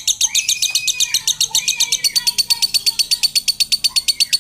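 Lovebird singing a long unbroken chatter of high, rapid chirps, about ten a second, getting faster and more even about halfway through: the nonstop 'konslet' song that bird keepers prize.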